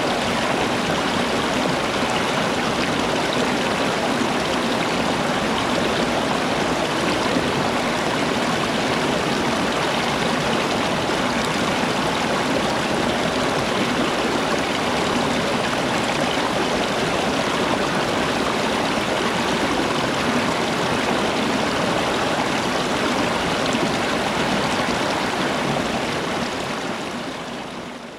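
Steady rush of flowing stream water, fading out near the end.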